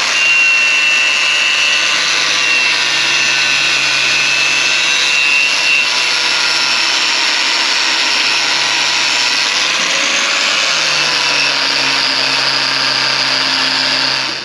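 Angle grinder running under load on steel chassis metal: a loud, continuous high whine over a grinding rasp, which starts and stops abruptly.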